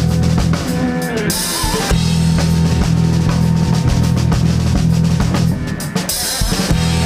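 Live rock band playing an instrumental passage: drum kit with bass drum and snare over a steady bass guitar and electric guitars, with a bright cymbal wash about a second and a half in and again near the end.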